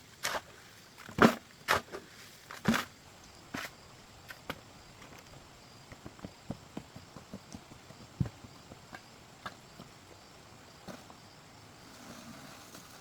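Irregular sharp knocks and thuds, the loudest in the first three seconds, followed by lighter scattered taps and clicks.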